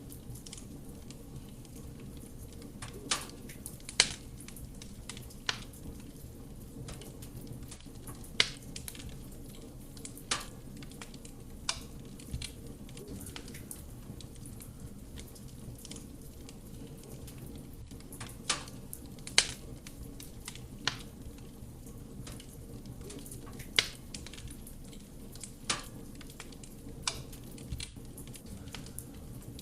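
Wood fire burning in a fireplace: a steady low rush of flame with sharp, irregular crackles and pops from the burning logs, about a dozen in the stretch, a few louder than the rest.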